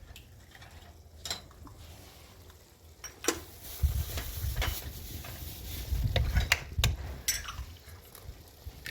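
Scattered sharp clinks and knocks of metal utensils against a cooking pot, about half a dozen, over a low rumble that grows louder midway.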